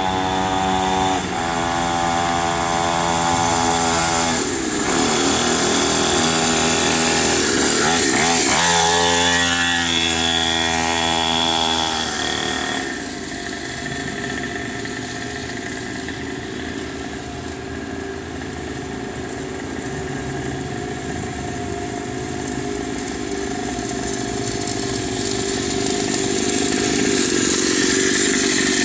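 Small 50cc mini motocross bike engine running at high revs, its pitch dipping and rising a few times around eight to ten seconds in. About twelve seconds in it drops quieter and steadier, then grows louder again near the end.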